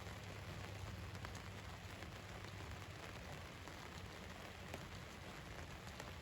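Rain falling on the roof of a van, an even patter with scattered single drops ticking clearly, over a low steady rumble.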